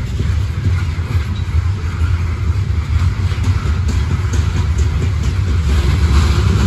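A freight train of open-top CSX hopper cars rolling past, a steady rumble of steel wheels on rail with a few faint clicks.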